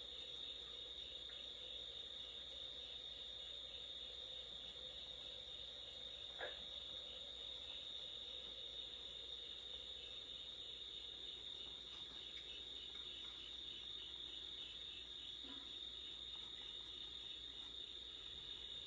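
Crickets chirping steadily: a constant high trill with an even pulse running under it. One faint click about six and a half seconds in.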